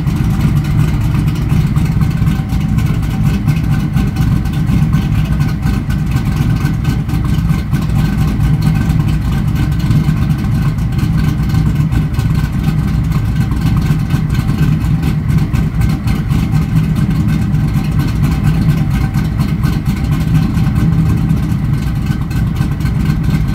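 1995 Pontiac Trans Am's LT1 V8 with an aftermarket TPIS camshaft idling steadily through its twin exhaust, warming up shortly after a cold start.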